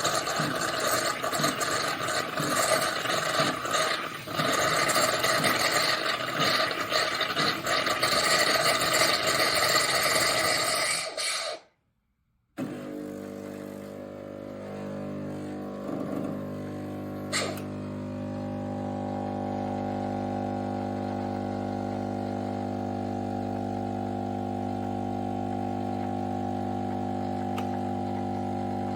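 Klarstein 20-bar espresso machine running: a loud, rattling, hissing noise stops abruptly about eleven seconds in. After a brief break, a steady, even hum with several tones sustains.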